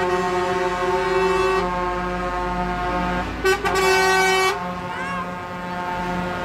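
Several truck air horns blaring at once, their held tones overlapping into a steady chord, with a louder blast of horns a little past halfway.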